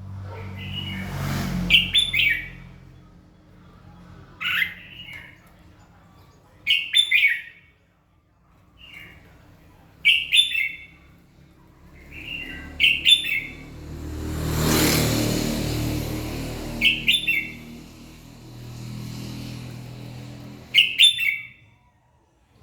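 Red-whiskered bulbul singing, short loud chirpy phrases repeated every two to three seconds. A broad rushing noise swells up twice, once near the start and more strongly just past the middle.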